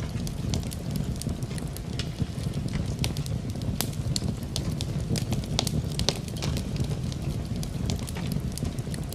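Wood fire in a fireplace crackling, with many irregular sharp pops, over a steady low rushing noise of rain.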